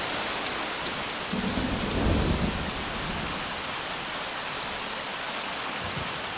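Rain falling steadily, with a low roll of thunder from about one and a half to two and a half seconds in.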